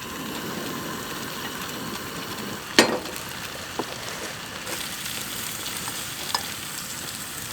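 Potatoes frying in butter in a pan, a steady sizzle, with a sharp knock about three seconds in and a couple of lighter clicks later.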